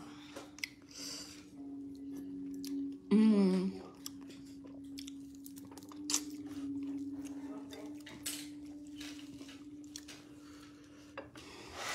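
Close-up chewing and wet mouth sounds of a person eating fisherman soup by hand, with many small clicks and smacks, and a brief hummed vocal sound about three seconds in. A steady low hum runs underneath.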